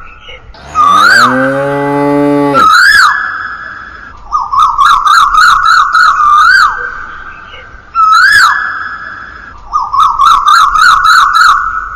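High, warbling, siren-like electronic tone in repeated rhythmic phrases. About a second in, a lower tone rises in pitch and holds for nearly two seconds before cutting off.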